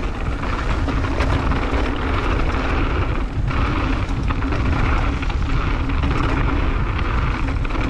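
Wind rushing over an action camera's microphone together with mountain bike tyres rolling on a dirt trail during a fast descent: a steady, loud rush with a heavy low rumble and small rattles and clicks from the bike.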